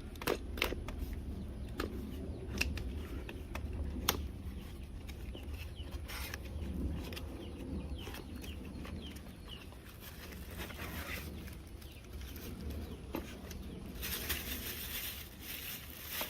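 Packaging being handled while a shower head and its parts are unpacked: scattered clicks, knocks and rustles over a low rumble, with a hiss near the end.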